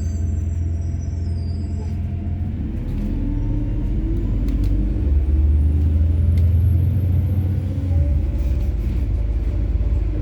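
Ride inside a MAZ-103 city bus: its methane-fuelled engine rumbles steadily under way and grows louder for a few seconds mid-way before easing off. A few short rattling clicks sound through it.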